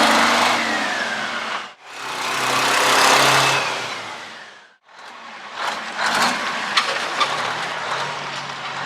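The 1974 Chevy C90's Detroit Diesel two-stroke engine revved twice in long swells, then running steadily with scattered sharp clicks and knocks.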